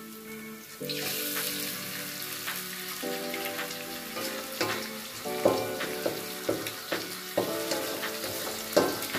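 Egg frying in hot oil with garlic, chili and onions, sizzling steadily while a utensil stirs and taps against the pan, over soft background music.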